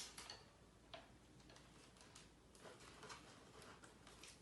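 Near silence with faint handling sounds: soft rustles and small taps of cardstock and adhesive tape being handled and stuck together.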